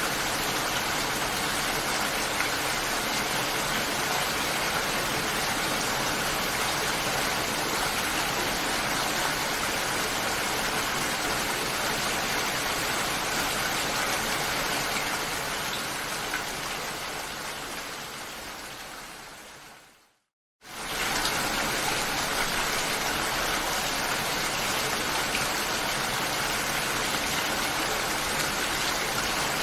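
Steady rain, an even hiss of falling drops. About two-thirds of the way through it fades down over several seconds to a moment of complete silence, then comes back in within a second.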